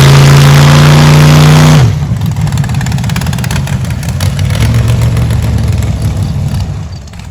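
Large truck engine revved and held at high revs for about two seconds, then dropping off abruptly to run rougher and quieter at lower revs, fading toward the end.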